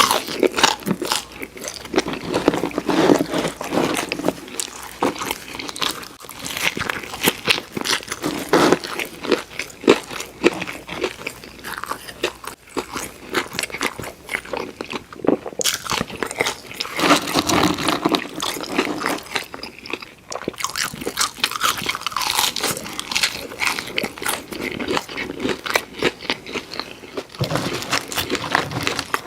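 Close-miked eating: crunching bites into crispy fried food and wet chewing, with many small crackles and mouth clicks in quick irregular succession.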